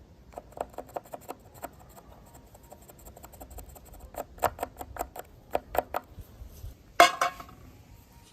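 A string of irregular small hard clicks and taps, as of hard objects being handled and knocked together, with one louder clatter about seven seconds in.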